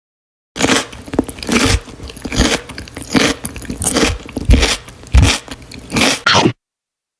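Close-miked eating: a person biting and chewing food with crunchy bites, several loud bites at irregular intervals. Starts about half a second in and cuts off abruptly near the end.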